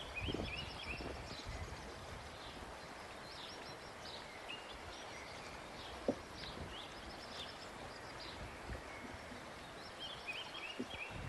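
Small birds chirping in the background, short repeated calls throughout, with a few soft knocks near the start and a single sharp click about six seconds in.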